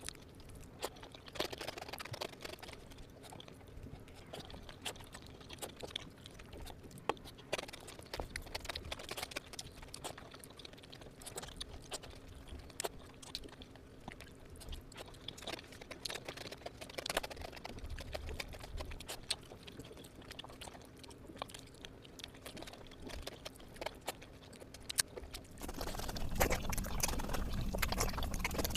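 Close-miked chewing and mouth sounds of someone eating fish curry with rice: irregular small wet clicks throughout, over a faint steady hum. The eating noise grows louder and fuller about three seconds before the end.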